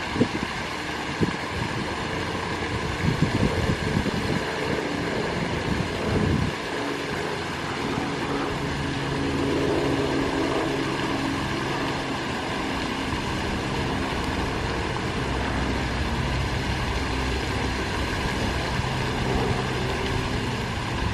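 Fountain water rushing and splashing steadily, with wind buffeting the microphone in gusts for the first several seconds. A low steady drone joins in from about a third of the way through.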